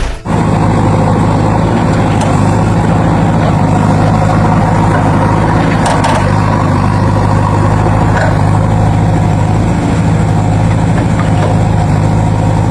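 Heavy vehicle engine running steadily at an even pitch, a low hum with no change in speed.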